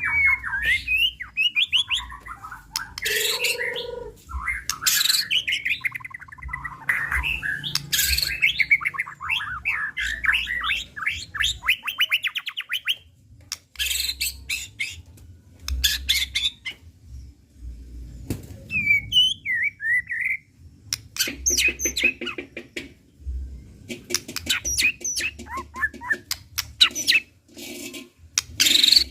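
White-rumped shama (murai batu) singing a long, varied song. It runs from gliding whistles and a rapid even trill to a few clear whistled notes and harsh chattering bursts near the end, a string of borrowed phrases (isian).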